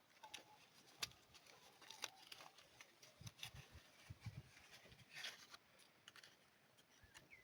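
Near silence with faint, scattered small clicks and a few soft knocks.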